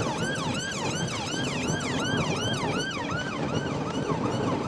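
Police car siren on a fast yelp, sweeping up and down about three times a second, over the engine and road noise of a patrol car in a high-speed pursuit.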